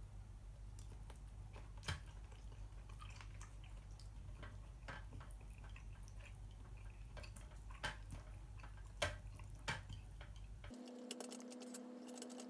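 Faint, scattered light clicks and taps with a few sharper knocks, over a low steady hum. Near the end the hum cuts out and a steady tone with quick small clinks takes over.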